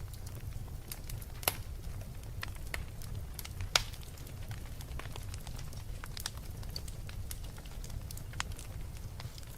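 Wood fire burning in a fireplace: a steady low rumble with scattered crackles and pops, two louder pops about a second and a half in and just before four seconds in.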